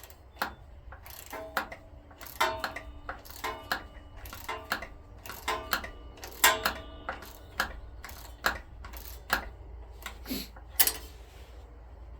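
Metal hand tools clicking and clinking on a small engine while bolts are worked loose: sharp, irregular clicks about one to two a second, some with a brief metallic ring.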